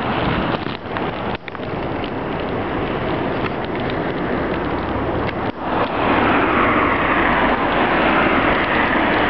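Traffic on a wet, slushy road in a snow blizzard: a steady rush of tyre noise mixed with wind on the microphone. It grows louder and fuller about six seconds in, as a vehicle comes close.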